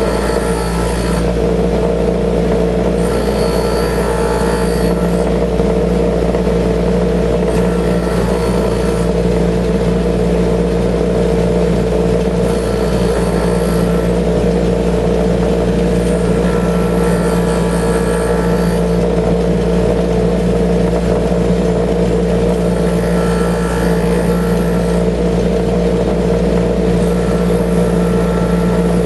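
Bench grinder motor running with a steady hum while a drill bit, clamped in a sharpening jig, is passed slowly across the wheel. Each pass gives a brief grinding rasp that comes and goes every few seconds.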